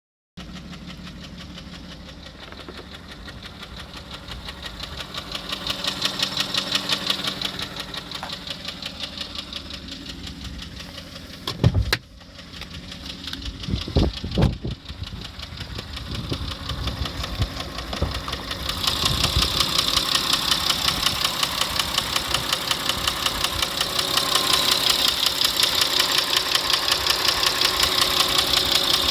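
Engine running with a fast, even, rhythmic knock from inside it. The engine picks up briefly about a quarter of the way in and runs faster and louder for the last third. There is a sharp bang a little before the middle, followed by a few more knocks.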